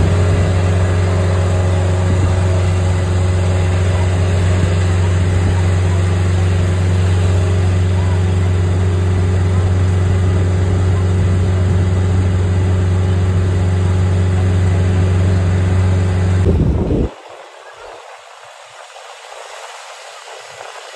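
A vehicle engine running at a steady idle, a loud low hum that does not change in pitch. About 17 seconds in it cuts to a much quieter, even hiss of falling rain.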